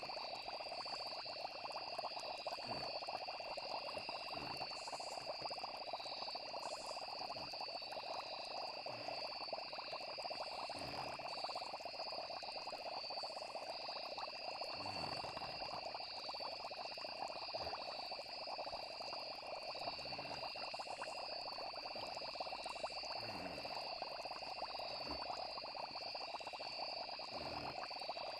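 Steady night chorus of frogs with insects trilling in two steady high bands, with soft low pops every second or two.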